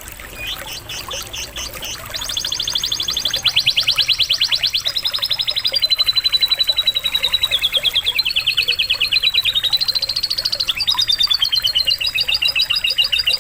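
Domestic canary singing a long song of rapid rolling trills, jumping to a new pitch every second or so. It starts softly and is loud from about two seconds in.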